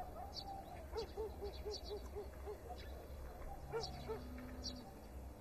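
A bird calling in a faint outdoor ambience: a quick run of short, low hooting notes, about four a second, with a few faint higher chirps.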